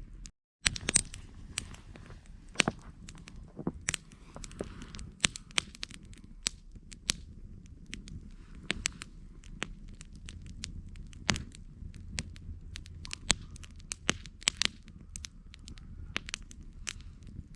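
Wood campfire crackling, with frequent irregular sharp pops over a low steady rumble of the flames. The sound drops out completely for about half a second just after the start.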